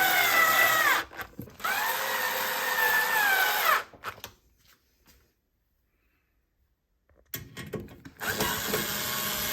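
Cordless drill-driver running in two short bursts, the first about a second long and the second about two seconds, its whine rising at each trigger pull and falling on release. Then about three seconds of dead silence and some weaker clattering near the end.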